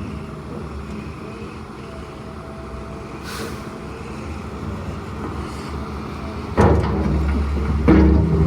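Heavy equipment engine running steadily, then revving up louder twice near the end, about six and a half and eight seconds in.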